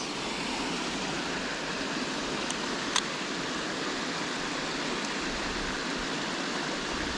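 Water pouring over a small creek spillway: a steady rushing with no break. A single brief click about three seconds in.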